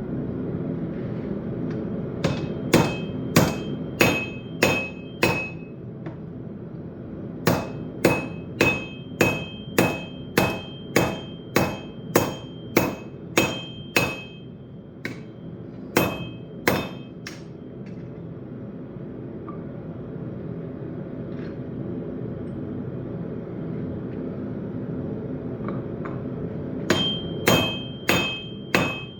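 Hand hammer striking hot steel on an anvil while forging a railroad knife, the anvil ringing with a clear high tone after each blow. The blows come in runs of about two a second, with pauses between runs, over a steady low rumble.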